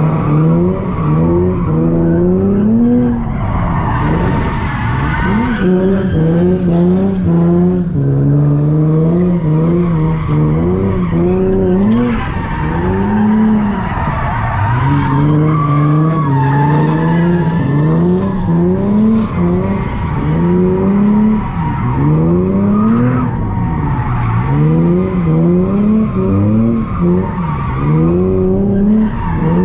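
Car engine revving hard, its pitch climbing and dropping again and again, with tyres squealing and skidding, as in drifting.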